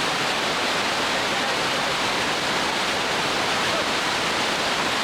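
River rapids rushing in a steady, unbroken roar of whitewater.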